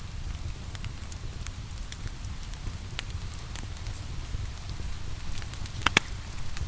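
Wood fire crackling, with scattered small clicks and two loud pops close together near the end, over a steady low rumble and the even hiss of rain.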